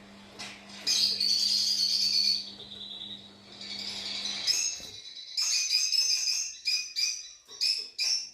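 Fischer's lovebirds chirping and chattering, with a long high call in the first half and a rapid run of short sharp chirps in the second. A low steady hum underneath stops about halfway through.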